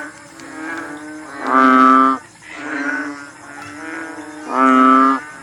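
A frog calling: two loud, drawn-out calls about three seconds apart, with quieter calls at the same pitch between them. The uploader wonders whether it is a bullfrog.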